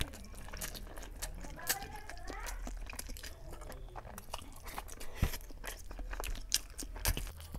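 Close-miked chewing of a mouthful of chicken biryani, with many short wet mouth clicks and smacks, while fingers squish and mix the rice.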